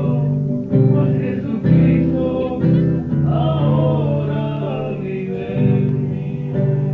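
Acoustic guitar strumming the chords of a Spanish-language worship song, a new chord about every second, with a voice holding notes over it.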